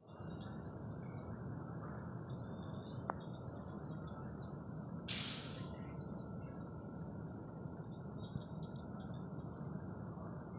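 Small birds chirping repeatedly in short high notes over a steady low background rumble, with a brief hiss about five seconds in.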